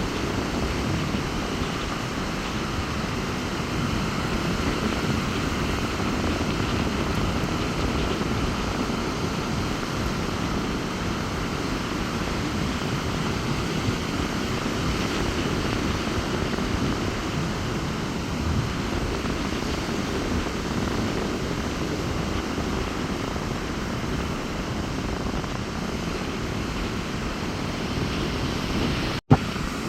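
Rough sea surf breaking on a beach in strong wind: a steady rushing noise with a heavy low rumble.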